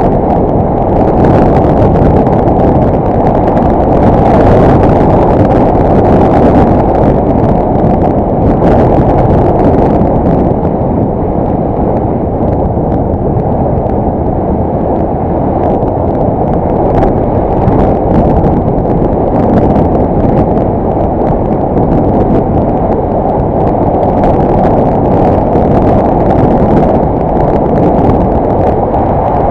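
Loud, steady riding noise from a Yamaha YBR 125 motorcycle on the move, a dull rush of wind and engine picked up by a helmet-mounted action camera, with little high sound in it.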